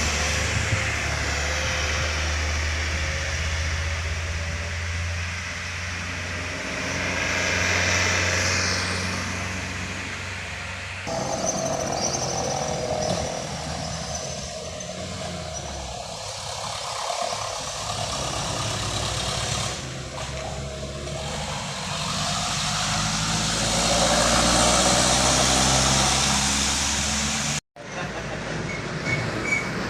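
Heavy diesel trucks labouring up a steep climb, their engines running under load as they pass. The sound changes abruptly twice, about a third of the way in and near the end, with a brief dropout at the second change.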